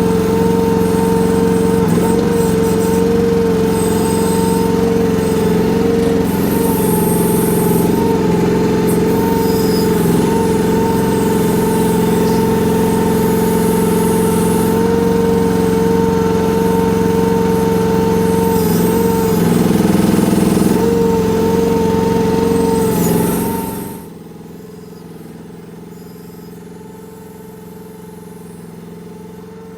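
A Chinese mini excavator's engine running at high throttle with a steady whine, its pitch dipping slightly now and then as the machine works. About 24 seconds in it drops sharply to a much quieter idle.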